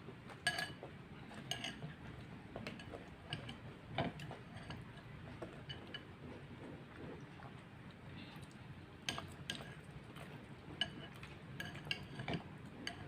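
Cutlery clinking against a bowl of noodle soup while eating: scattered short clinks, a cluster in the first few seconds and another after a quieter stretch in the middle.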